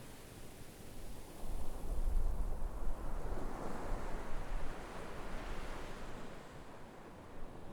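Sea waves breaking and washing up the shore: a low rumble swells about a second and a half in, followed by the hiss of surf that eases off after about five seconds.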